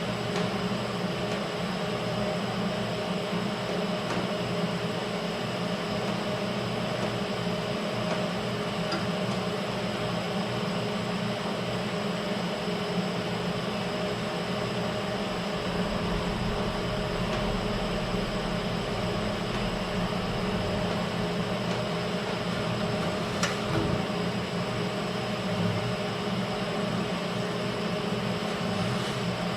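Steady machine hum with a few constant tones underneath a low rumble, unbroken throughout, with a faint click about twenty-three seconds in.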